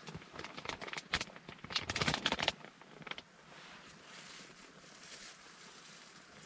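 Rustling and clicking of things being handled, a quick run of sharp rustles loudest about two seconds in, then a faint steady hiss.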